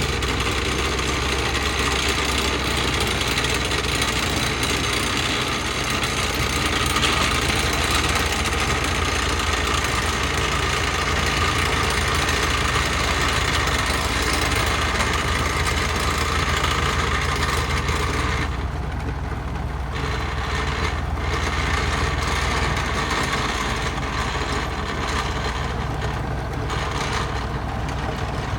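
An old truck's engine running steadily at an even pitch.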